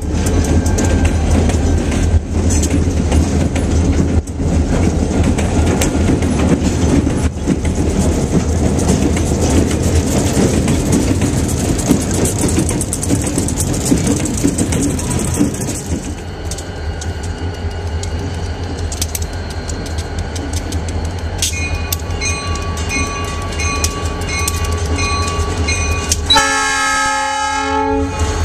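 Wisconsin and Southern SD40 diesel locomotives rolling past with a heavy, steady engine rumble and wheel clatter. In the second half a bell rings rapidly and steadily, and near the end the locomotive horn sounds one loud blast of about a second and a half.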